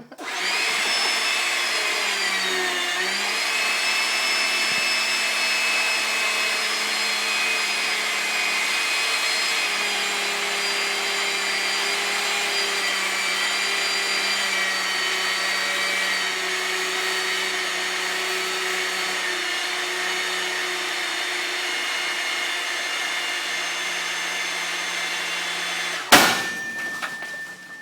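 A 100-ton hydraulic press's pump motor running with a steady whine as the press bears down on a phone book. Near the end comes a single loud bang as the compressed phone book bursts.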